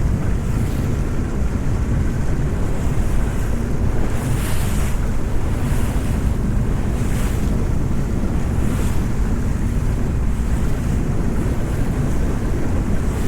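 Wind buffeting the microphone over a steady low rumble as a small boat runs across open sea, with a few brief splashes of water against the hull.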